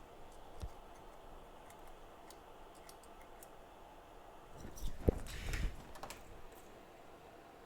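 Light clicks and taps from work at a repair bench, scattered at first, then a cluster about five seconds in that holds one sharp tap, over faint steady room noise.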